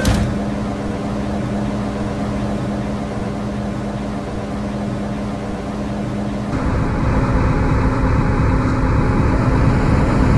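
MTR M-Train electric multiple unit standing with a steady hum after its doors close, then, about six and a half seconds in, the noise steps up to a louder rumble and hiss with a new steady tone as the train starts to pull away.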